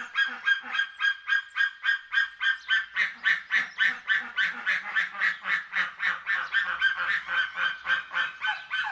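An eagle calling: a fast, even series of short high calls, about four a second, without a break.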